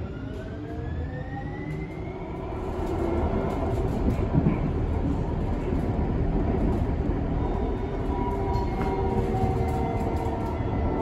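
Electric passenger train pulling away, heard from inside the car: a motor whine rises in pitch over the first few seconds, then the running rumble of the wheels on the rails grows louder and holds steady as the train gets up to speed.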